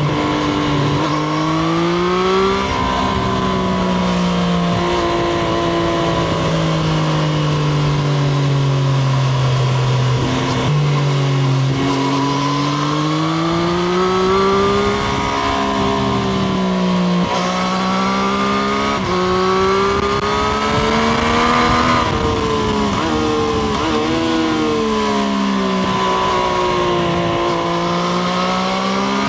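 Triumph Street Triple RS motorcycle's inline three-cylinder engine, heard from onboard while riding. Its revs rise and fall again and again, with a few quick drops in pitch between pulls, over steady rushing noise.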